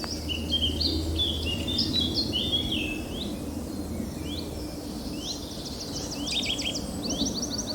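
Several woodland birds singing and calling at once, among them a Eurasian nuthatch's repeated whistled calls, with fast runs of sharp high notes after about six seconds. A low steady rumble runs underneath.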